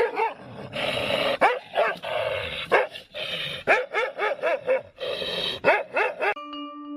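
A dog barking in quick runs of short barks, several a second at times. Near the end the barking stops and a ringing chime of background music begins.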